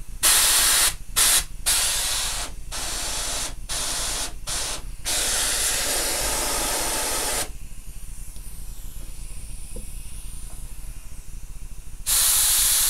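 Compressed air hissing from an air blow gun into a brake caliper, used to force out a seized caliper piston. It comes as a string of short blasts, then one longer blast of a couple of seconds, a pause, and another blast near the end.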